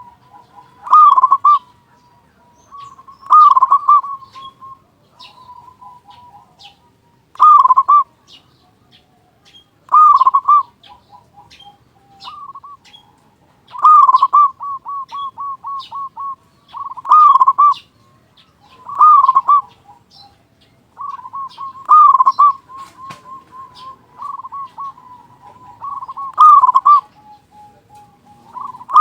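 Zebra dove (perkutut) cooing. A loud phrase of a few quick notes comes every two to three seconds, each trailing off into a run of softer, rapid coos.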